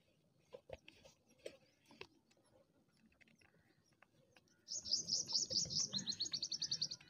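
A bird's rapid trill of high repeated chirps, lasting about two seconds near the end, quickening and dropping in pitch partway through. Before it, a few faint clicks of a screwdriver driving small screws into a plastic indicator lens.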